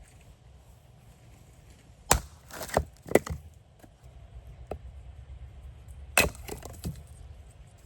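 Wood being split or snapped: sharp woody cracks in two clusters, a few strokes about two seconds in and again about six seconds in.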